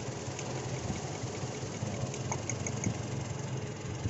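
Toyota Innova's 1TR four-cylinder petrol engine idling, with a fast, regular light ticking; the misfire is traced to cylinder number 3.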